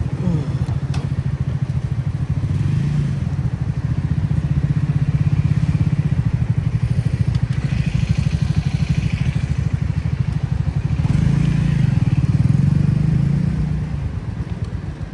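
Motorcycle engine running under way, a steady low pulsing note that swells a little about a third of the way in and again about three quarters of the way through, then eases off near the end.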